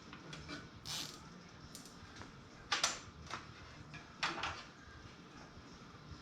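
Hands handling PC cables and parts: scattered small clicks and rustles, with a few sharper plastic-and-metal clacks about one, three and four seconds in.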